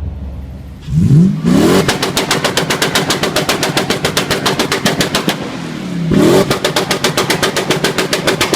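2015 Subaru WRX STI's turbocharged 2.5-litre flat-four through an aftermarket exhaust, revved quickly up to the rev limiter and held there, the limiter cutting in with a rapid, even stutter of about ten cuts a second. About six seconds in it drops back briefly, is revved up again and bounces off the limiter once more.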